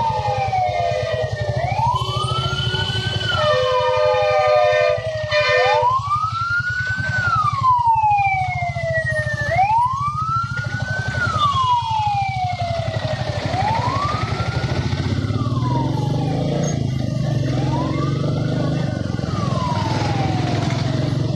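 Ambulance siren wailing, sweeping up and down about every four seconds, over the steady running of the motorbike's engine. A horn sounds for about four seconds near the start.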